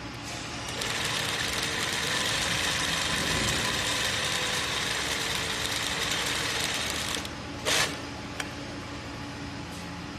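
ZY20U43 zigzag sewing machine running and stitching steadily for about six seconds, then stopping. A brief sharp noise follows just afterwards.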